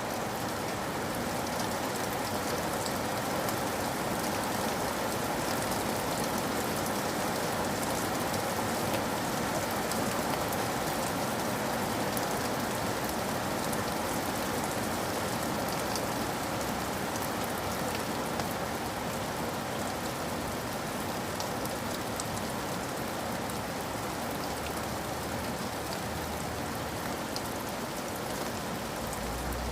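Steady rain falling: an even patter with many small sharp drop ticks scattered through it.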